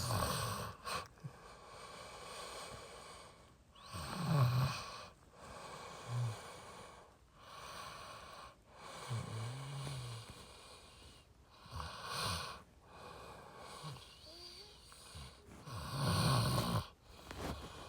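A man breathing heavily and making a few short, low hums under his breath, every few seconds, close to the microphone.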